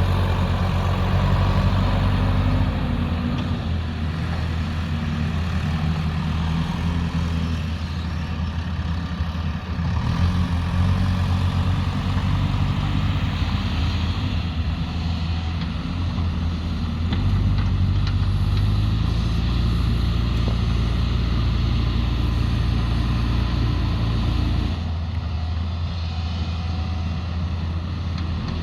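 Diesel engines of heavy earthmoving machinery, a backhoe loader and an excavator, running continuously. The engine note shifts up and down several times as the machines work.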